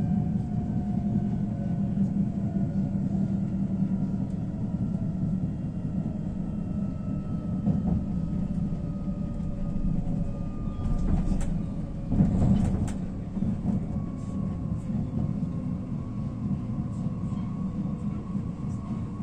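Inside a passenger train carriage on the move: a steady low rumble of wheels on rails, with faint whining tones that slowly fall in pitch. About two-thirds of the way through comes a louder stretch of rattling and clunks.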